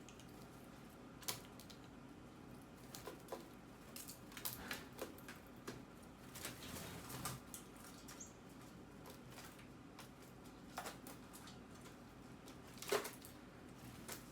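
Birds pecking at seed: a faint, irregular scatter of small taps and clicks, the sharpest about a second in and near the end.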